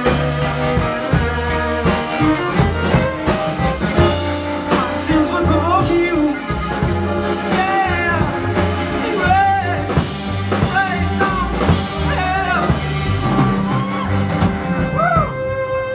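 Live band playing an instrumental break: a steady bass line under a high lead melody whose notes slide and arch, starting about five seconds in.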